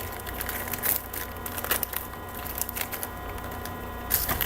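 Foil trading card pack wrapper crinkling as it is torn open, with the cards handled: a run of irregular crackles and rustles over a steady low electrical hum.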